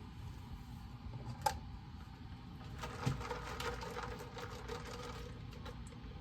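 Small desk noises: a single sharp click about a second and a half in, then a few seconds of quick, light tapping and clicking, over a steady low hum of room noise.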